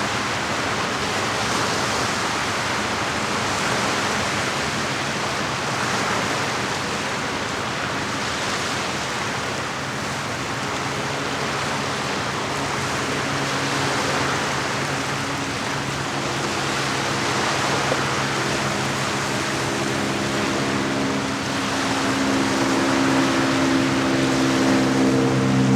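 Lake water washing and lapping as a steady hiss that swells gently every couple of seconds. In the second half a boat's engine hum comes in and grows steadily louder, and is the loudest sound by the end.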